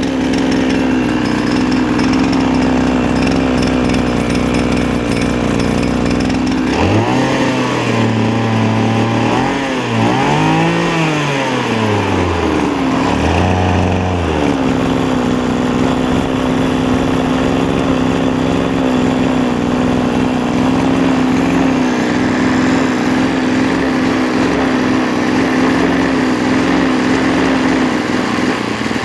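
Small 26.5cc two-stroke engine running loud and steady, revved up and down several times from about seven to fourteen seconds in, then settling back to a steady speed. Through it runs a metal beating noise that the owner traced to the centrifugal clutch.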